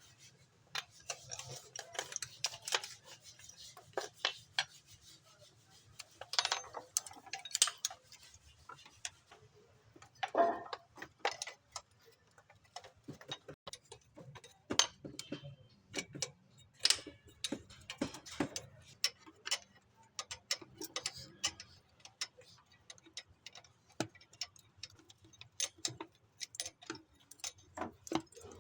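Irregular sharp metallic clicks and clinks, some louder than others, over a faint low steady hum.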